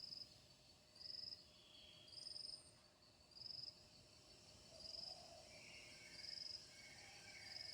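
Faint insect chirping: a short, high chirp repeating about once a second, with a few softer, lower animal calls in between.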